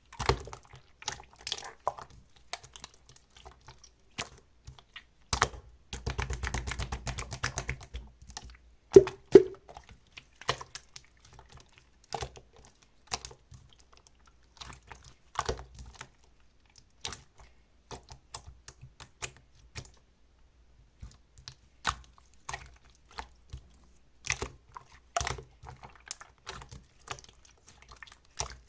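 Irregular clicks and taps, with a denser rattling stretch about six seconds in and two louder knocks about nine seconds in.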